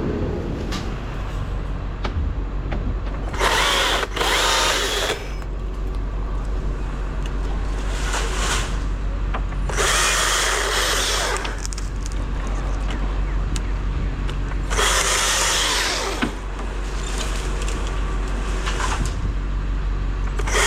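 Chainsaw running throughout, throttled up in about six short bursts of one to two seconds, typical of cutting wood.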